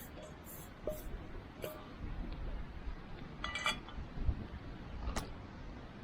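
Wood fire crackling, with sharp pops now and then over a low rumble. About three and a half seconds in comes a brief ringing clink.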